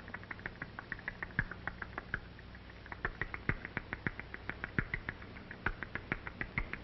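Hungry barn owl nestlings calling: short, high peeps repeated several times a second, with a brief pause near the middle. Scattered clicks and a steady low hum from an old film soundtrack run underneath.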